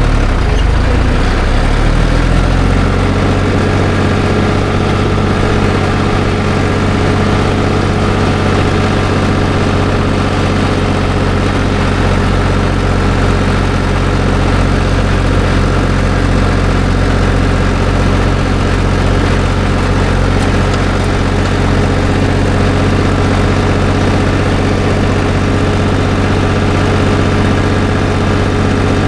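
Tractor engine running, heard close from the driver's seat. Its pitch shifts in the first couple of seconds, then holds steady at an even speed.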